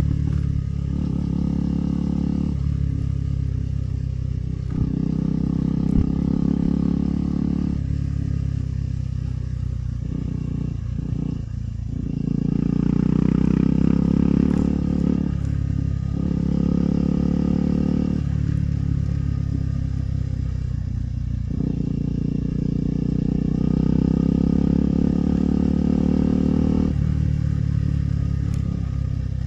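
KTM 390 Adventure's single-cylinder engine running while riding, its note shifting up and down in steps every few seconds, louder for a few seconds around the middle and again in the last third.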